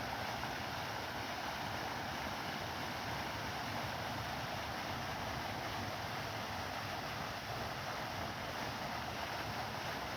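Steady rushing noise of running water, even and unchanging.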